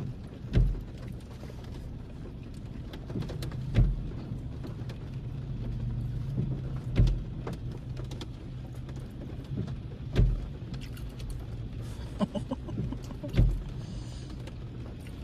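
Steady low hum of a Chevrolet car idling, heard from inside the cabin, with a dull thump repeating about every three seconds.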